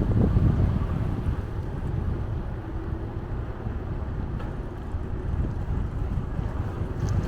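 Wind buffeting the microphone of a camera carried on a moving bicycle: a steady low rumbling rush that wavers in strength.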